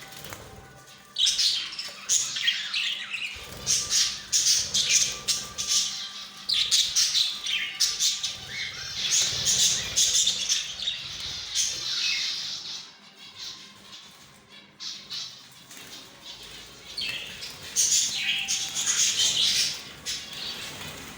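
A colony of budgerigars chattering and squawking, in loud spells with a quieter stretch in the middle.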